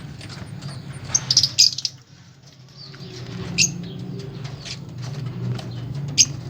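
Cage birds chirping in an aviary: short, sharp high calls, with a loud cluster of them about a second in and single loud chirps later, over a steady low hum.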